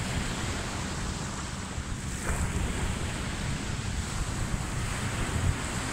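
Ocean surf washing in with a steady hiss, and wind buffeting the microphone in a low rumble.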